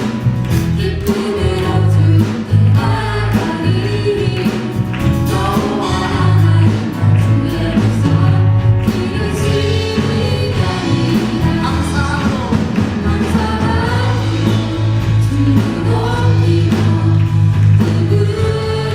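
A church praise band plays with a group of singers singing a worship song: drums, bass and keyboards under a sung melody.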